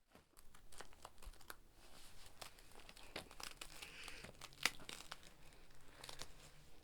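Crinkling and crackling: a dense run of small crisp clicks and rustles, as of something being crumpled or handled, starting about half a second in. The sharpest click comes a little before five seconds.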